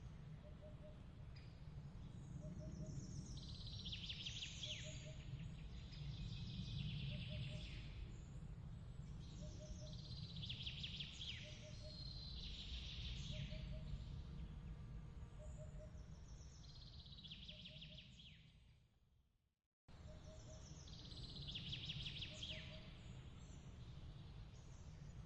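Birds chirping in short trilling bursts every few seconds over a steady low rumble, with a soft low chirp repeating evenly about every second. About two-thirds of the way through, the sound fades out and then cuts straight back in: a looped ambience track restarting.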